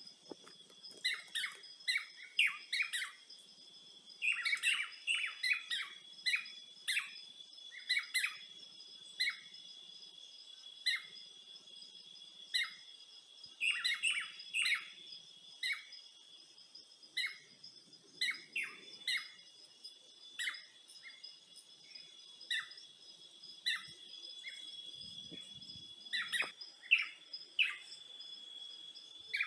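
Small birds chirping in quick, short calls, several at a time and irregularly spaced, over a steady high-pitched whine.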